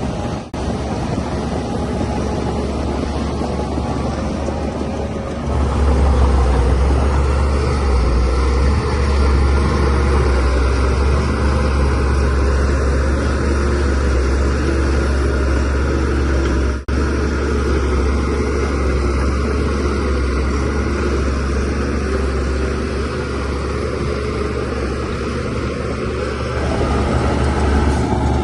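DH17C3 bulldozer's diesel engine running under load while it pushes soil. The engine note steps up louder about five seconds in and stays up, with two very brief dropouts in the sound.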